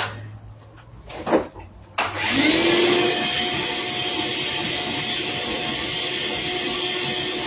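A few knocks, then about two seconds in an electric blower motor switches on: its whine rises as it spins up, then it runs steadily with a loud rush of air.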